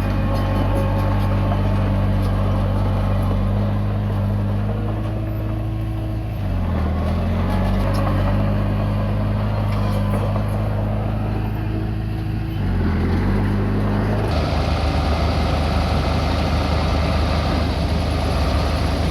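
Komatsu D20P bulldozer's diesel engine running steadily, its pitch dipping briefly and recovering twice. About two-thirds of the way through, the sound turns abruptly harsher and noisier.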